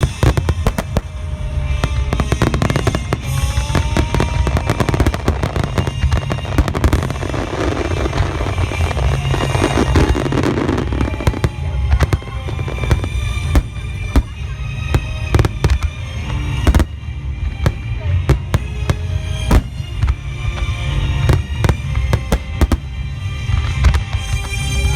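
Large aerial fireworks shells bursting in rapid, continuous succession at the climax of a display: deep booms that overlap into a constant rumble, with many sharp cracks on top.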